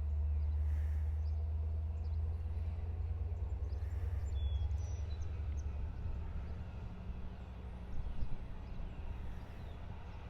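Long Island Rail Road EMD diesel locomotive idling: a steady low rumble that eases a little partway through. Birds chirp faintly over it.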